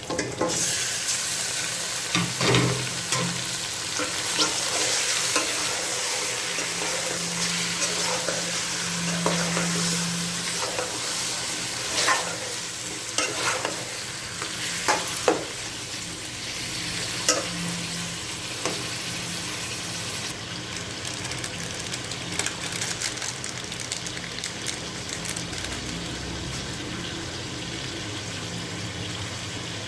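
Ingredients for chicken tinola sautéing in hot oil in a pan, a steady sizzle, stirred with a utensil that scrapes and knocks against the pan now and then. This is the sauté stage before the water goes in. The sizzle eases a little about two-thirds through.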